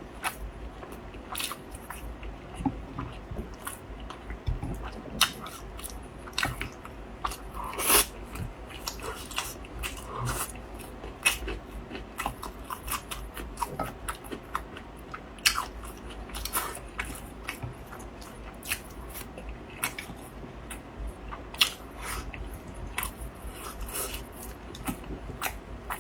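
A person chewing pork knuckle close to the microphone: an irregular run of wet mouth clicks and smacks, several a second, with a few louder bites.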